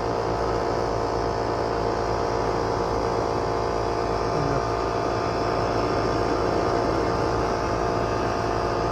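Air-conditioner outdoor unit running, its compressor giving a steady electrical hum with a drone. The compressor sounds slightly off and is drawing unsteady, higher-than-rated current, which the technician suspects means it is overheating and close to failing.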